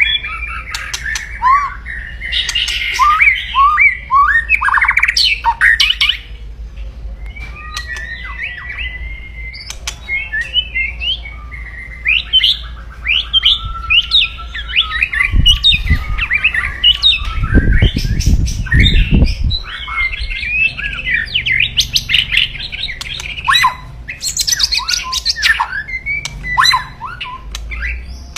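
White-rumped shama (murai batu) giving loud, aggressive kretekan: fast harsh rattling chatter mixed with short rising and falling whistled notes. This is the fighting call used to provoke rival males. A low rumble runs under the calls for a few seconds past the middle.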